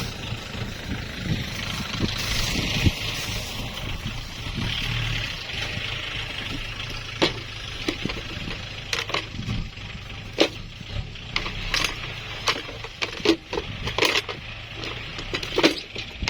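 Tractor engine running steadily, with irregular sharp metallic knocks and clanks coming thick from about halfway through.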